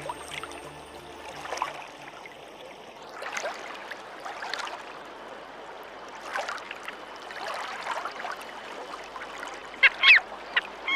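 Fast-flowing river water running steadily, with scattered short bird calls that grow sharper and louder near the end. Background music fades out in the first two seconds.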